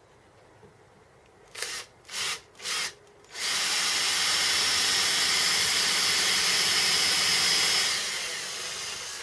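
Electric drill with a 1.5 mm bit: three short blips of the trigger, then a steady run of about four seconds that eases off near the end. It is spotting a hole position through a steel plate.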